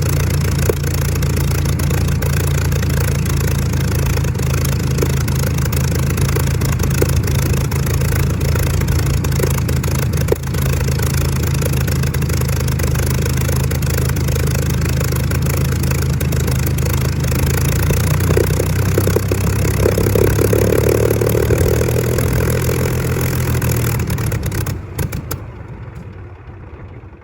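Supermarine Spitfire Mk XIV's Rolls-Royce Griffon V12 running steadily on the ground, then dying away over the last few seconds.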